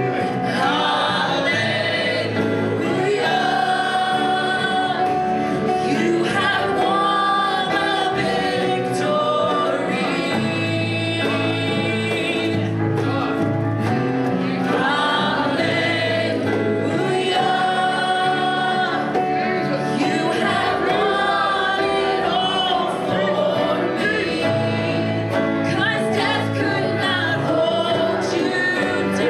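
Congregation and worship band singing a gospel praise song, voices together over instrumental accompaniment.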